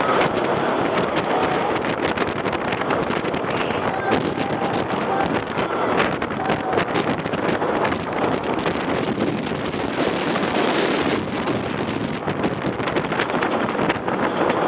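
Strong wind rushing over the microphone with the steady rumble of the Millennium Force steel roller coaster train racing along its track.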